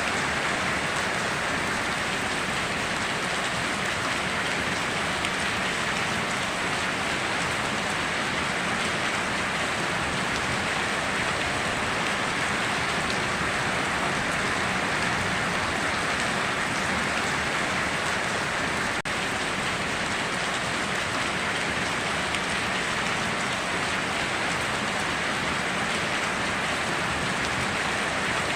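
Steady heavy rain falling, an even hiss of many drops without let-up.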